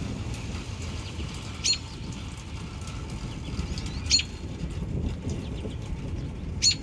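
A bird repeating a short, sharp high call three times, about every two and a half seconds, with fainter bird chirps in between, over a steady low rumble.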